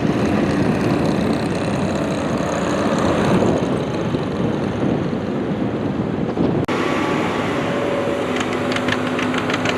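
Antique farm tractor engine running hard under load during a pull. About two-thirds of the way in the sound changes abruptly to a steadier engine note.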